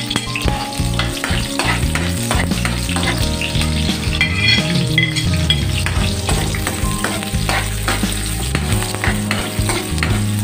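Sliced onion, garlic and ginger sizzling in hot oil in a metal wok, stirred with a spatula that scrapes and clicks against the pan.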